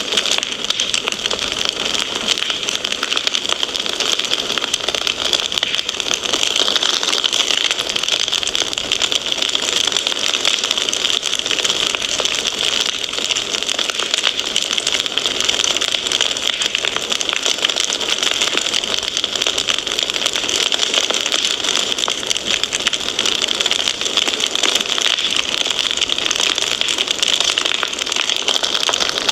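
Wood fire crackling steadily: a dense run of small pops and snaps over a soft hiss, with almost no low rumble.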